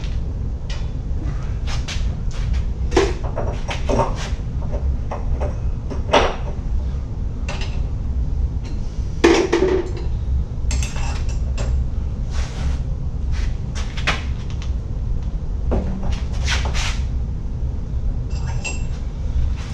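Scattered clicks, knocks and metallic clinks of hand tools and fittings being handled on the water heater, over a steady low rumble.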